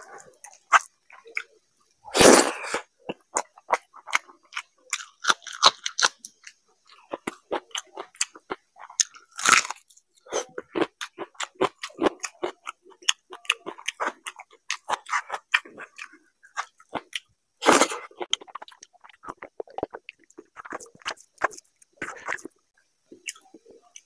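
A man chewing and biting mouthfuls of fried rice close to a clip-on microphone: quick, wet mouth clicks throughout, with three louder crunching bites spread through.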